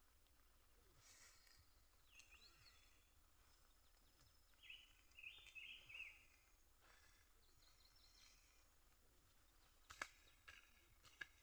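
Faint outdoor ambience with a few short bird chirps around the middle, some brief rustling, and a couple of sharp clicks near the end.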